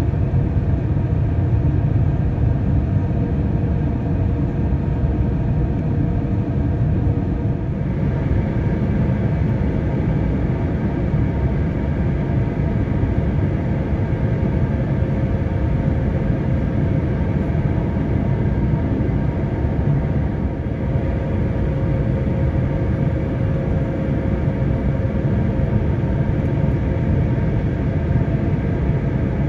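Steady cabin noise of an Airbus A350-900 in flight, a low rumble of its Rolls-Royce Trent XWB engines and airflow, heard from a window seat during the approach. The hiss grows slightly brighter about eight seconds in.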